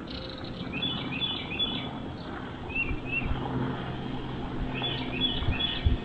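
A bird chirping, with a quick run of short high notes about a second in, two single rising notes around the middle and another run near the end, over a steady low hum.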